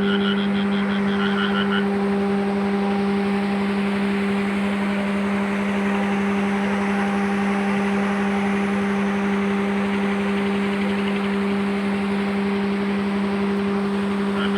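Heavy vehicle engine running at a steady, unchanging speed, giving a constant droning hum. A short, rapid pulsing chirp sounds over it near the start and again at the end.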